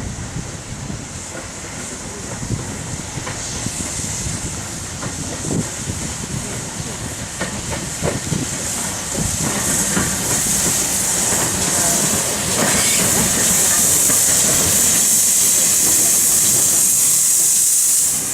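Steam locomotive letting off steam: a hiss that swells about halfway through into a loud, steady hiss, over low irregular rumbling and knocks of the train.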